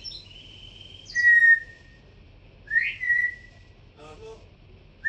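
Cockatiel whistling: two loud, clear whistles about a second and two and a half seconds in, each held on one steady note, the second sliding up into it. A fainter whistle comes at the start.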